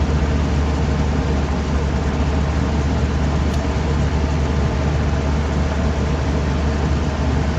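Air-conditioning outdoor unit running with a steady low hum and an even whooshing noise.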